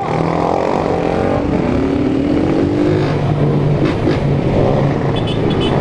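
Several small single-cylinder motorcycle engines, Honda 160s, running together in a group ride. One engine's pitch rises as it accelerates from about a second and a half to three seconds in.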